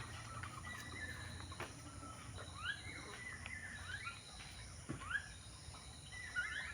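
Small birds calling: a string of short chirps that each sweep quickly upward, several in a row and again near the end. A few sharp ticks fall between them.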